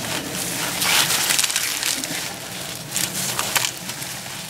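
Crunching and rustling of soil, roots and plant stalks as a turmeric clump is dug up and pulled apart, in irregular bursts.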